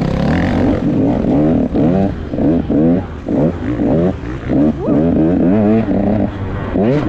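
Enduro dirt bike engine heard from on board, the throttle opened and closed over and over, so that the revs climb and fall back two or three times a second.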